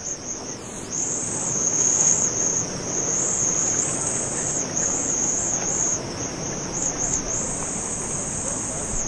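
Steady high-pitched insect chorus, a continuous buzz that dips briefly now and then, over the even rush of a waterfall.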